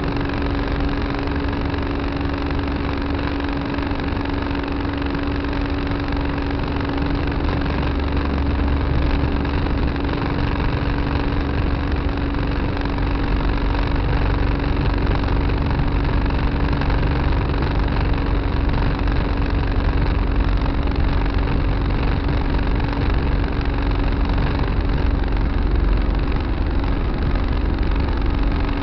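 Tractor engine running steadily with a constant hum and low rumble, heard from the cab.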